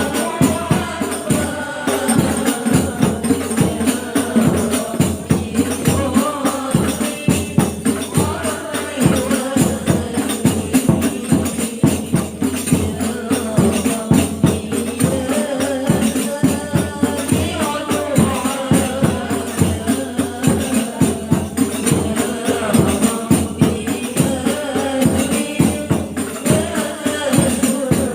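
A group of women singing sholawat together to hadroh, with rebana frame drums and jingles beating a steady, fast rhythm.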